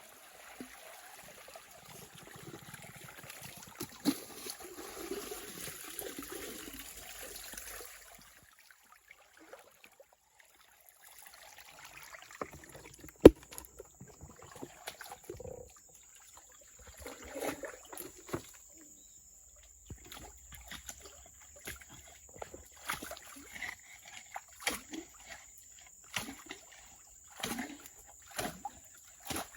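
Water trickling and sloshing, then after a sharp knock a run of irregular splashes and knocks.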